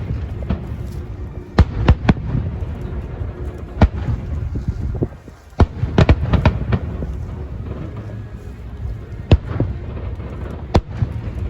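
Fireworks bursting: sharp bangs at irregular intervals, several in quick succession about two seconds in and again about six seconds in, over a continuous low rumble.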